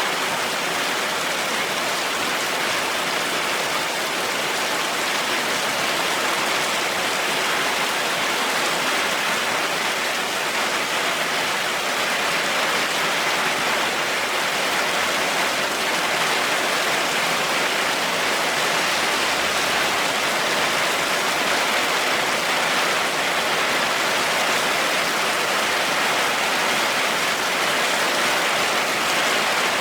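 Heavy rain falling steadily, an even dense hiss with no thunder.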